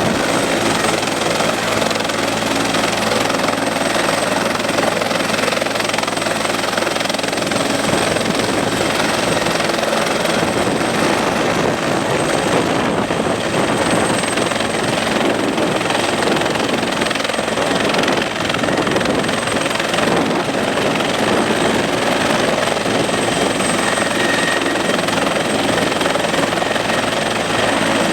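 Helicopter running close by: a loud, steady wash of rotor and engine noise that holds throughout.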